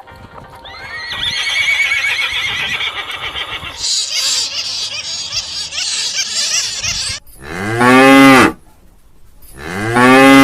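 Small birds chirping busily for the first several seconds. Then a cow moos twice in long, loud calls, the second running on past the end.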